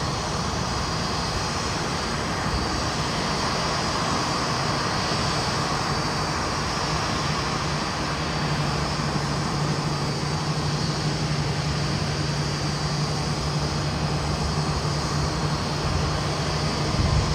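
Steady noise of a Boeing 787-9's jet engines running on the ground, with a low steady hum that grows stronger about halfway through and a brief low thump near the end.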